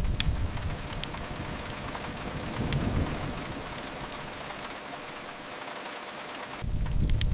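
Steady rain hiss with occasional sharp crackles and pops from a wood fire. A deep low rumble sits under it at the start, swells briefly about three seconds in, and comes back strongly near the end.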